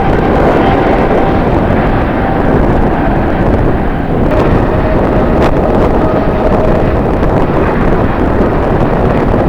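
Jet airliner engines running with a steady whine, mixed with strong wind buffeting the microphone.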